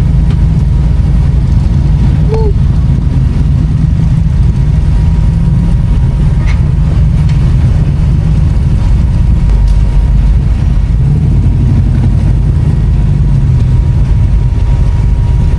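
Engine of an off-road vehicle running steadily at close range: a constant deep rumble with a faint steady high tone above it.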